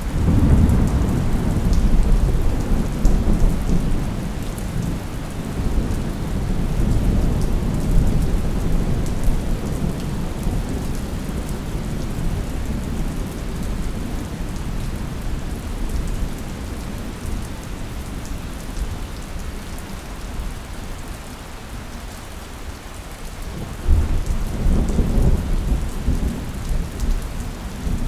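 Steady rain falling with rolling thunder. A long low rumble fills roughly the first ten seconds and slowly fades, then a second peal breaks sharply about 24 seconds in and rumbles on.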